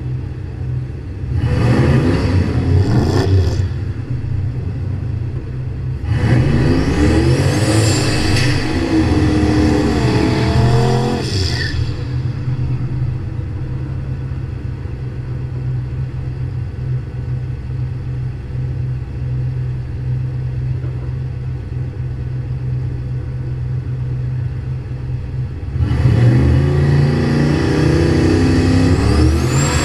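V8 drag-car engines at the starting line: a steady, deep, lumpy idle runs throughout, with loud revving about two seconds in, again from about six to eleven seconds during a burnout in the next lane, and once more near the end as the cars stage and launch.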